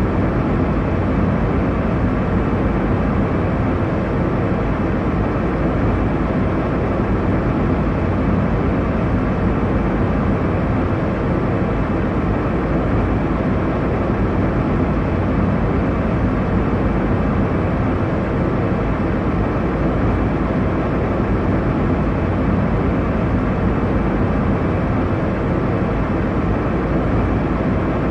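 Airliner cabin noise in cruise: a steady, even rush weighted to the low end, with no changes or distinct events.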